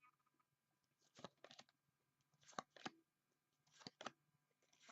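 Faint handling noise of trading cards and a foil pack wrapper: short rustles and clicks that come in pairs, about one pair a second.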